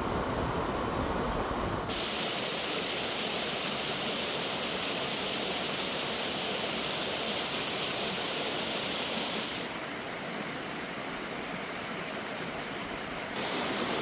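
Steady rush of a mountain stream heard from a slowly driving vehicle, mixed with road and engine rumble. About two seconds in the low rumble drops away and the water hiss comes up louder.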